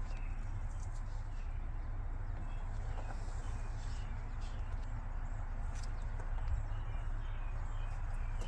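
Mack MP8 13-litre inline-six diesel of a 2020 Mack Pinnacle truck idling steadily, with a low, even pulsing rumble.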